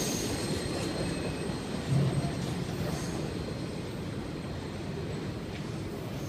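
Autorack freight cars rolling past and moving away, a steady rumble of wheels on rail that eases slightly, with faint brief wheel squeals and a short bump about two seconds in.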